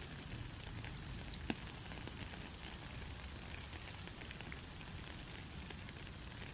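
Steady white noise, a hiss over a low rumble, with a few sharp clicks; the loudest comes about a second and a half in.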